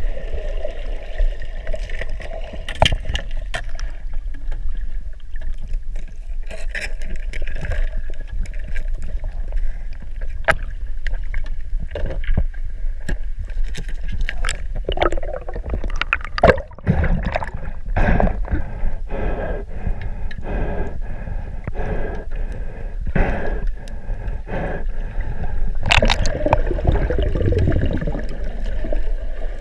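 Gurgling water with a steady low rumble and scattered knocks and scrapes.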